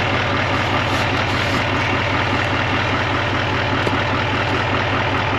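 A truck's engine idling steadily.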